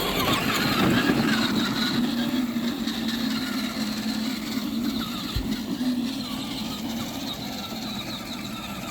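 Battery-powered ride-on Tonka toy truck driving, its electric motor and gearbox running with a steady whine.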